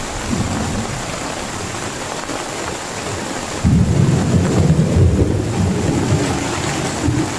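Heavy rain falling steadily, with a loud low rumble of thunder that starts suddenly about halfway through and rolls on for several seconds.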